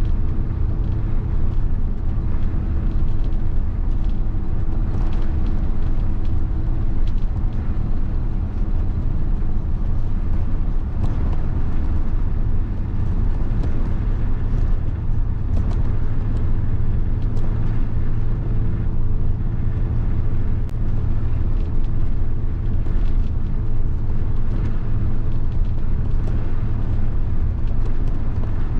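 Mitsubishi Fuso bus's 7.5-litre diesel engine running steadily, a constant low hum with a slight change in engine note about halfway through.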